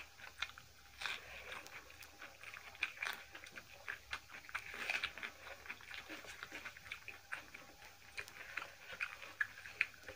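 Close-up eating sounds: chewing and mouth smacking of people eating rice and mutton curry by hand, with many small irregular clicks and taps of fingers and food on steel plates.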